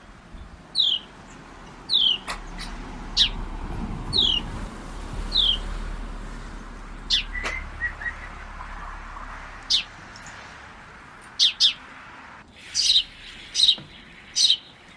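A bird calling: a short, high, downward-slurred note repeated about once a second, then sharper, brief chirps, several in quick succession near the end.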